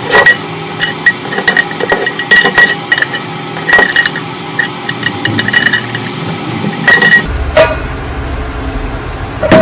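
Hammer striking a metal frying pan in a series of irregularly spaced blows, each with a short metallic ring.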